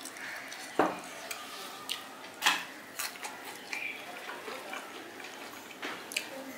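Close-up eating sounds: chewing crisp shredded fried potato with rice, with scattered sharp crunches and clicks and light clinks against a plate.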